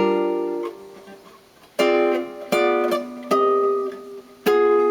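Guitar played chord-melody style: a chord rings out at the start, then four more chords are plucked one after another from about two seconds in, each left ringing, with the melody note on top.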